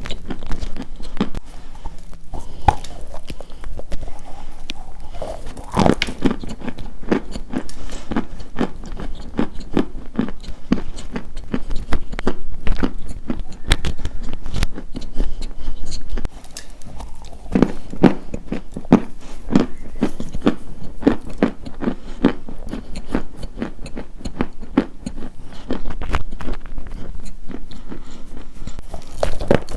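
Close-up, continuous crisp crunching of something brittle, a rapid run of small cracks with louder clusters of crunches now and then.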